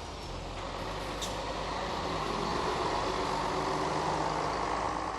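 A bus engine running as the bus drives past, growing louder through the middle and fading toward the end.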